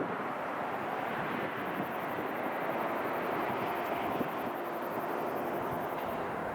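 Jet airliner's engines, heard as a steady rushing noise with a faint hum of held tones in it.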